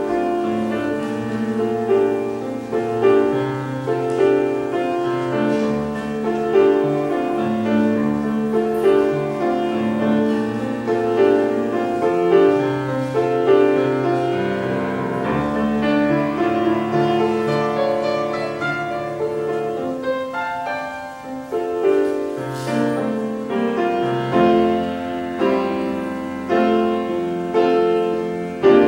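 Piano playing slow, chordal music, with a short softer passage about two-thirds of the way through.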